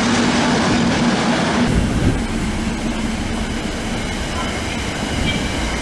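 Train passing with a steady low hum over a broad rumble, the sound changing abruptly about two seconds in.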